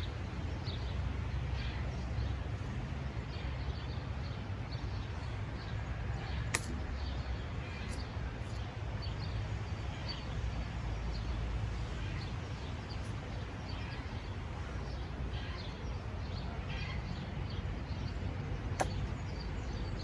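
Scattered faint bird chirps over a steady low rumble, with a few sharp taps, one about six seconds in and another near the end.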